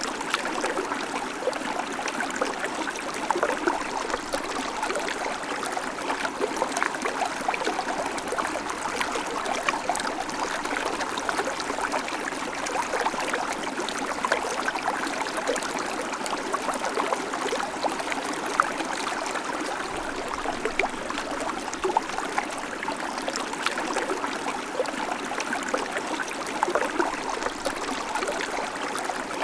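Babbling creek: water running steadily over stones with many small trickles and splashes.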